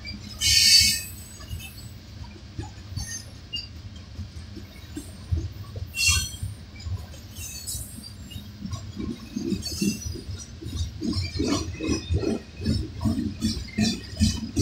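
Coal cars of a long freight train rolling past: a steady low rumble of the wheels on the rails, with metallic clinks and a short, loud high squeal about half a second in. From about nine seconds on, a run of irregular clunks, a few a second, joins the rumble.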